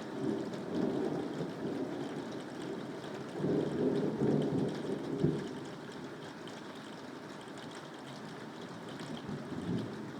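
Steady rain with thunder rumbling over it, in two swells at the start and a few seconds in, with a sharp crack about five seconds in; after that the rain goes on with the thunder died away.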